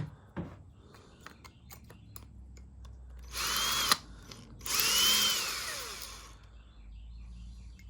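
Power drill run in two short bursts, each whine rising as it spins up and falling as it winds down, drilling scale out of a blocked water inlet in an espresso machine's brew group. Light clicks and knocks of handling come before the first burst.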